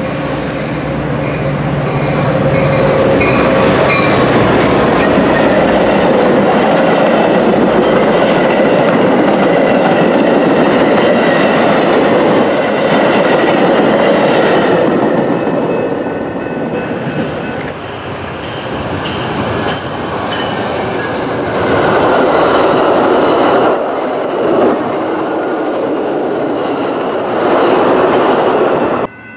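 Metra commuter train passing close at speed: diesel locomotive first, then bilevel passenger cars with a steady rush and wheels clacking over the rail joints. The noise eases and swells a few times and cuts off suddenly near the end.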